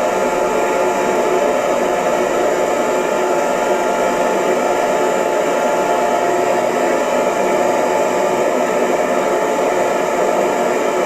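Hair dryer running steadily: an even rush of blown air and motor whir with a faint steady hum, unchanging throughout.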